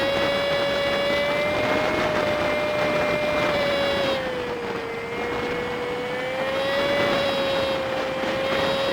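Honda Super Cub 50's single-cylinder four-stroke engine under way, played back at five times speed so it comes through as a high, steady whine over a hiss of wind and road noise. The pitch sags a little about halfway through and climbs back.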